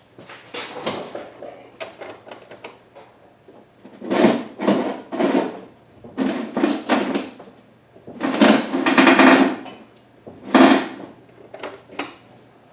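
Car ramps scraping and sliding across the floor under the front tyres as the steering is turned, in about six separate scrapes, each up to a second and a half long.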